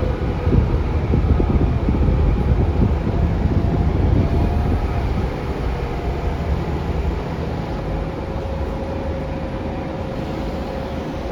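Scania K360UA articulated bus heard from inside the cabin while under way: a dense low engine and road rumble with rattling, easing a little about five seconds in, with a faint steady whine near the end.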